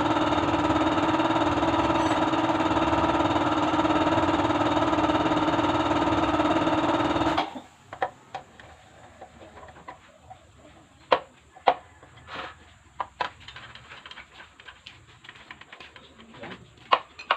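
Bajaj CT100 motorcycle engine running steadily, then stopping abruptly about seven seconds in. Scattered sharp clicks and knocks follow.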